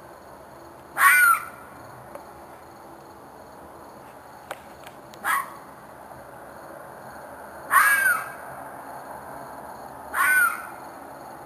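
An animal's harsh screeching cries repeating in the dark. There are four cries, each about half a second long and a few seconds apart, the second shorter and weaker. The recordist took them for a fox or a coyote in distress.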